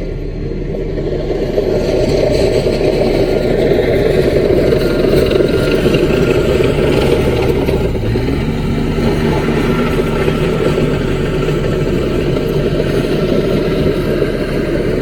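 CAT mini bulldozer's diesel engine running steadily, getting louder over the first couple of seconds, with a steadier engine tone coming through about halfway.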